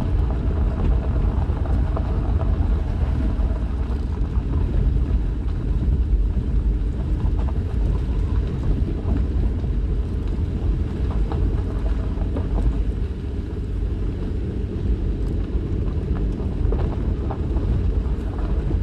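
Steady low rumble of a vehicle heard from inside the cab, driving slowly over a rough, bumpy dirt road, with engine and tyre noise and faint scattered rattles.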